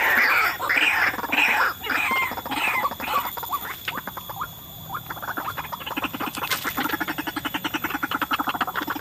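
White-breasted waterhen calls: loud, harsh, repeated calls for the first three seconds, then after a short lull a fast, even run of pulsed calls at about eight a second.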